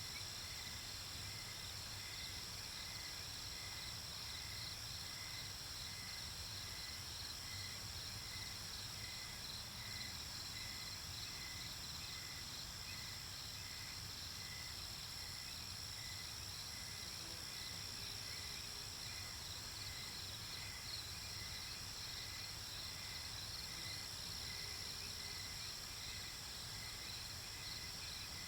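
Night-time chorus of crickets and other insects: a steady high trill, with a slower regular chirp repeating about one and a half times a second.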